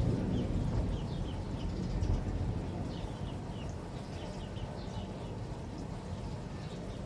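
Rain falling with a low rumble that dies away over the first few seconds, while small birds chirp in short, repeated notes.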